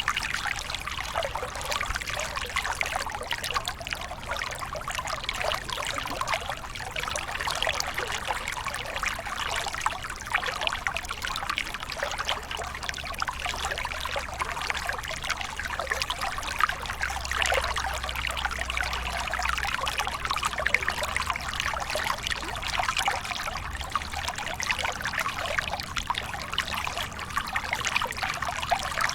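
Waterfall: water splashing and trickling steadily, with a low rumble underneath.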